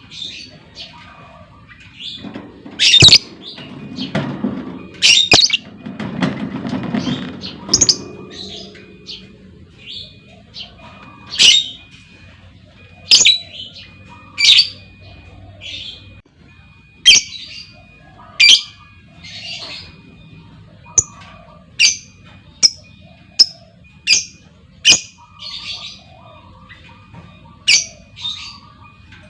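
Female lovebird calling: short, sharp, shrill squawks every second or two, with softer chirps between them.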